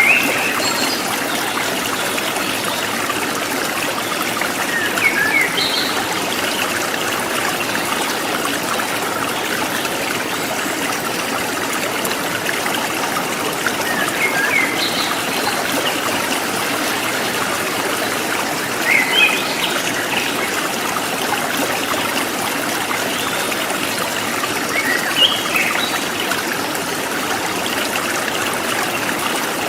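A river's water flowing and trickling steadily, with a few brief high chirps every several seconds.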